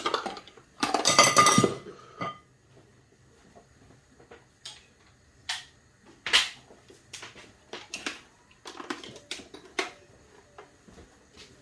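Kitchenware being handled: a loud clattering scrape about a second in, then scattered knocks and clinks of dishes and utensils.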